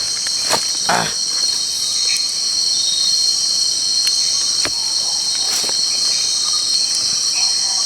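A dense chorus of forest insects, a steady high-pitched buzzing and shrilling. A few short clicks sound about half a second in, at one second, and near the middle.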